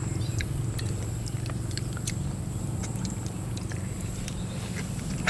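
Mukbang eating sounds of stir-fried eel: scattered soft mouth clicks and chewing over a steady low hum, with a sharper click at the very end.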